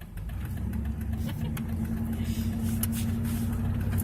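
Dodge Ram 1500 pickup heard from inside the cab while driving: steady engine hum and road rumble, building up over the first second and then holding steady.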